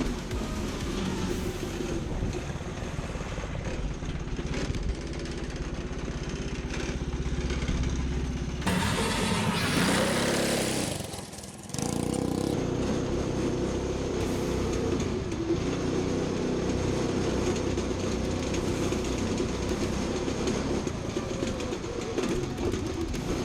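An engine running steadily, with a louder, noisier stretch about nine to ten seconds in and a brief dip just before twelve seconds.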